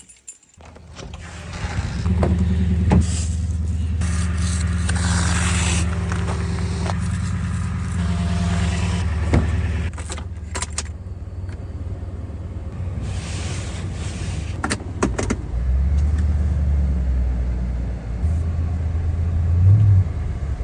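A car engine running steadily, with a few sharp clicks and knocks and a brief rise in engine pitch near the end.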